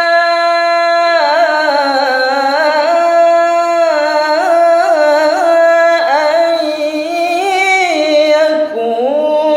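A man reciting the Quran in the melodic tilawah style. His voice draws out the vowels of 'ʿasā an' in long held notes with rippling ornaments, stepping to a new pitch every few seconds.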